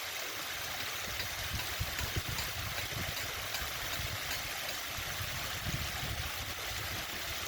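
Water pouring and splashing steadily down a rock-stone waterfall fountain, a constant rushing with an uneven low rumble beneath.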